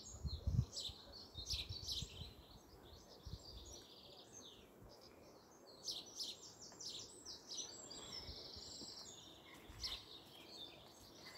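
Several birds chirping and singing: short, repeated high calls and trills throughout. There are a few low thumps in the first three seconds.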